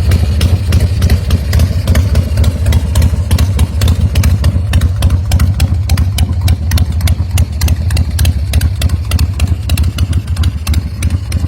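Custom chopper's 88 cubic inch Screaming Eagle V-twin engine idling steadily, with a rapid, even run of exhaust pulses.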